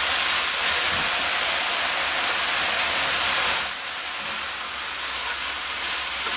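Chicken mince and chopped vegetables sizzling in a frying pan over high heat, a steady hiss that eases a little a bit over halfway through.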